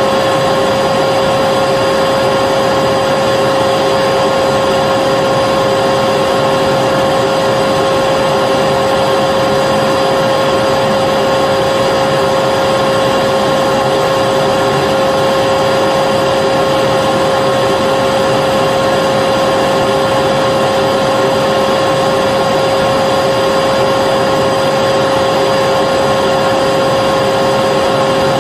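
Vacuum cleaner running continuously, a steady motor whine over a rushing airflow, with no change in pitch or level.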